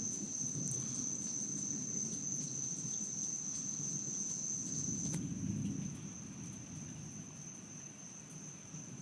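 Crickets trilling at night in one steady, high-pitched note, over a low rumble that fades about six seconds in.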